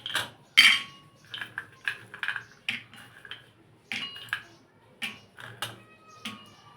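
Kitchen utensils clinking and knocking: about a dozen irregular sharp strikes, some leaving a brief ringing tone.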